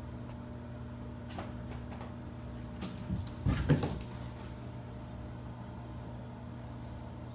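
A house cat making a brief vocal sound about three and a half seconds in, among a few soft knocks, over a steady low hum.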